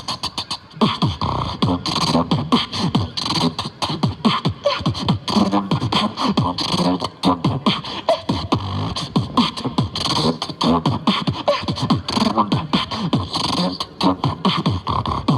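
Beatboxing: a fast, unbroken run of mouth-made drum sounds (kicks, snares and hi-hat clicks) mixed with many short bass notes that fall in pitch.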